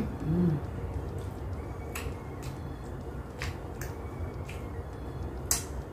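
Close-up eating sounds of bread and ice cream: soft, wet mouth clicks and smacks spread over several seconds, with a short hummed 'mm' about half a second in.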